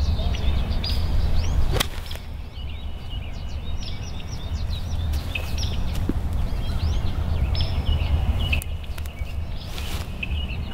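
Songbirds chirping repeatedly over a steady low rumble of wind on the microphone, with a single sharp click about two seconds in.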